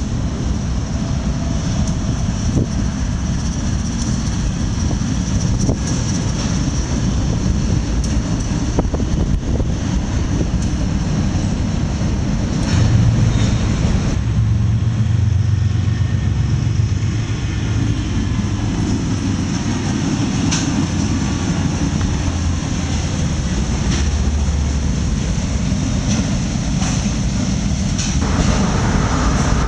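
CSX freight train moving through a rail yard: a steady low rumble of the diesel locomotive and rolling cars, with the engine throb heavier through the middle. Autorack cars roll past near the end.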